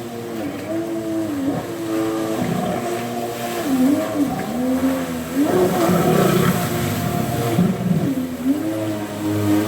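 Jet ski engine revving up and down again and again, its pitch dipping and climbing back every second or two as the throttle is worked.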